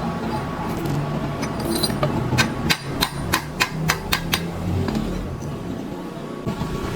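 Hammer blows on metal: a quick run of about eight strikes, roughly four a second, near the middle, over a steady low hum.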